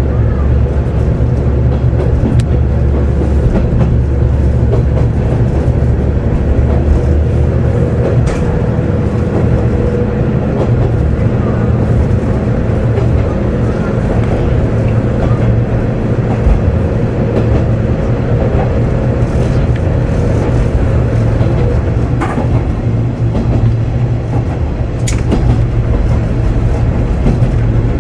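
Kanto Railway KiHa 2000 diesel railcar running, heard from on board: a steady, loud low rumble of engine and wheels. A steady mid-pitched tone fades out about two-thirds of the way through, and a few sharp clicks stand out.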